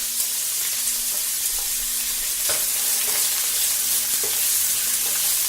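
Chopped onion sizzling in hot oil with whole spices in a frying pan while it is stirred: a steady frying hiss, with a light knock about two and a half seconds in.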